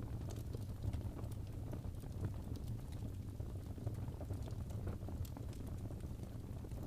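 Wood fire in a fireplace crackling, with irregular small pops and snaps over a steady low rumble of the flames.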